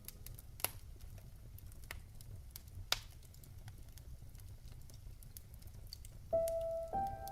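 Wood fire crackling in a fireplace: a low steady rumble with scattered small clicks and a couple of sharper pops. Piano notes come back in near the end.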